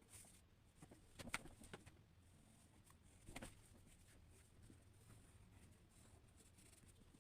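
Near silence: faint room tone with a few soft taps, twice close together about a second in and once more around three and a half seconds in.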